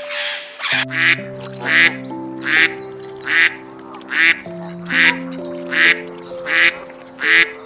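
Duck quacking over and over, about ten evenly spaced quacks, over background music.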